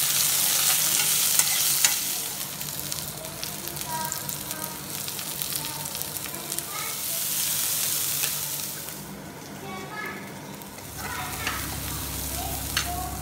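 Sliced onions sizzling in hot oil in a kadai, stirred with a metal spoon that scrapes and taps against the pan. The sizzle is loudest in the first two seconds, drops back, and swells again about seven seconds in.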